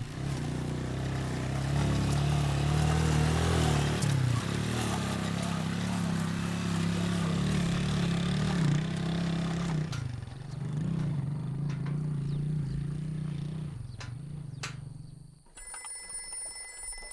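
An engine running with its pitch rising and falling, cutting off about fifteen seconds in. Near the end a telephone starts ringing.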